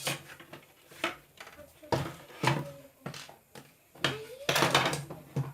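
Irregular knocks and clatter of mixer grinder parts being handled and fitted together, with a denser burst of clatter near the end.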